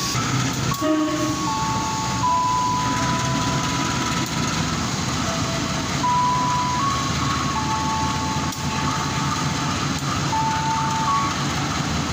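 A station public-address jingle: a slow melody of clear, single held tones stepping between pitches, played over the steady rumble of trains and platform noise.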